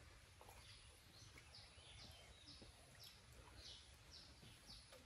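Faint outdoor ambience: a bird repeats a short, high chirp falling in pitch, about twice a second, over a low background hum.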